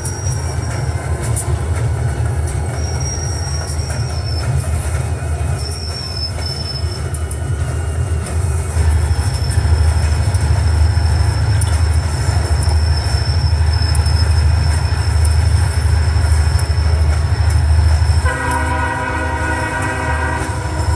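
Diesel freight train sound: a steady low engine rumble that grows louder about nine seconds in, with a few thin high squeals early on. A horn sounds in one long blast near the end.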